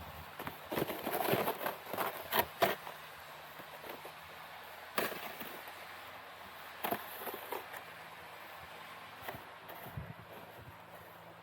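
Snow and ice being raked and knocked loose: a burst of crunching and scraping about a second in, then a few single sharp knocks.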